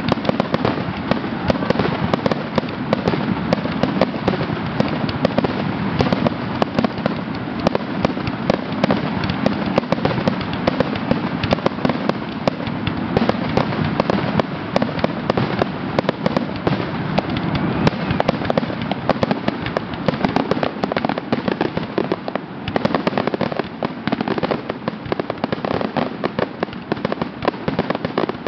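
Fireworks finale: a continuous barrage of aerial shells bursting, many sharp reports a second running together with no pause.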